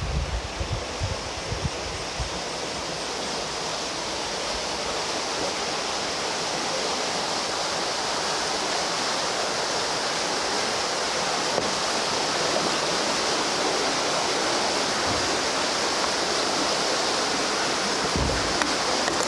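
River water rushing, a steady hiss that grows slowly louder, with wind buffeting the microphone in the first two seconds and again near the end.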